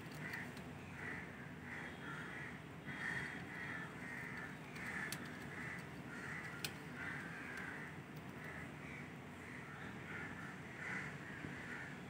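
Birds calling in a steady run of short, harsh notes, about two a second, with a couple of sharp clicks about five to seven seconds in.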